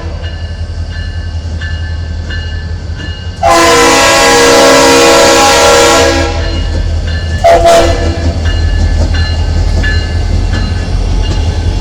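CSX GP40 diesel locomotive horn sounding one long blast of about two and a half seconds, then a short toot about a second and a half later. Under it runs the steady rumble of the locomotives' diesel engines, with regular clicks of wheels passing over rail joints.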